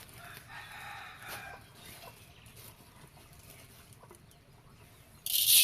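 A rooster crows over about the first two seconds, then it goes quieter. Near the end a loud, even hiss starts abruptly.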